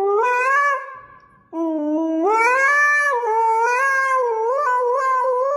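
A pet animal giving long, drawn-out, wavering howling calls. The first fades out about a second in, and after a brief pause a second one starts low, rises, and is held for several seconds with a wobbling pitch.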